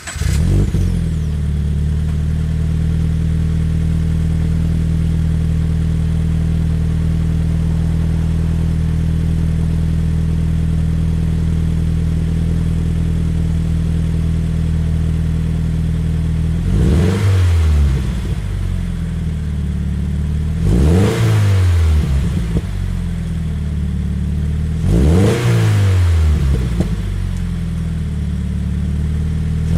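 2016 Subaru BRZ's flat-four engine through a Blitz Nur-Spec F-Ti catback exhaust, idling steadily after starting. About 17 seconds in, it is blipped three times to about 2500 rpm, about four seconds apart, each rev rising and falling back to idle.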